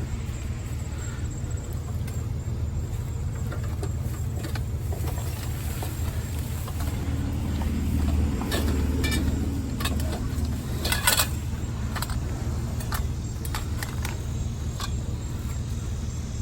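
A motor vehicle's engine running with a steady low rumble that swells for a few seconds about halfway through, with scattered sharp clicks and metallic clinks on top, the loudest a quick cluster of clinks a little past the middle.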